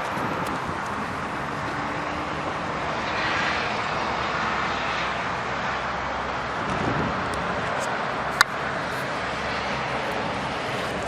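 Steady vehicle and road noise with no speech, briefly swelling a few seconds in, and one sharp click about eight seconds in.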